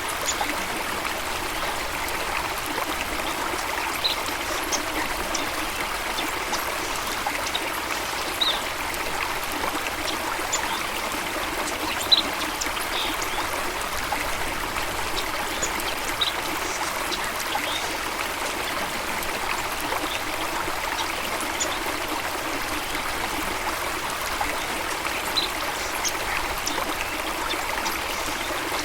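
Steady running water, the rush of a stream or waterfall, with short high bird chirps every second or two over it.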